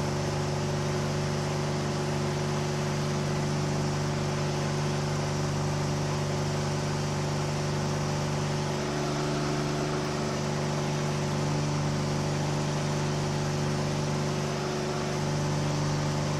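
Light aircraft engine running steadily at about 3,000 rpm in flight, a constant drone with rushing wind noise from the airframe.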